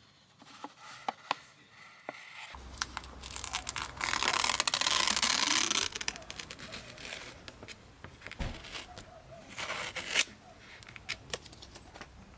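Something being torn and crinkled, most intense for about two seconds near the middle, with scattered clicks and handling rustles around it.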